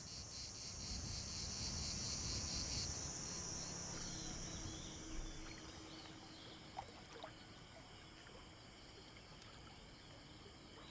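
Crickets chirping in a steady high chorus over a low rumble. About four seconds in the chorus cuts off abruptly, leaving faint outdoor ambience with a few soft knocks.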